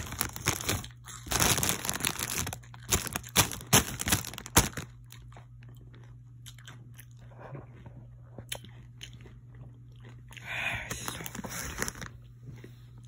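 Crunchy Funyuns Flamin' Hot onion-flavored rings bitten and chewed close to the microphone. Loud crunches come in the first five seconds, then quieter, sparser chewing, over a steady low hum.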